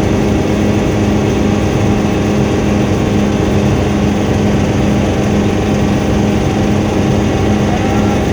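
Helicopter in flight: the engine and rotor keep up a loud, steady drone with a constant low hum.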